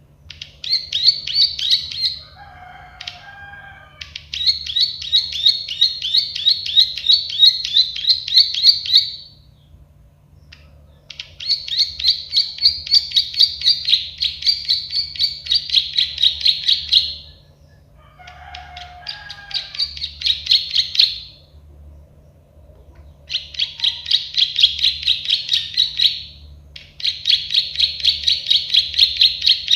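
A prenjak sawah (a prinia) singing its rapid 'klik-klik' song. Bursts of quick, high, repeated notes come at about four a second, in phrases of a few seconds with short pauses between. Twice a brief lower call joins in.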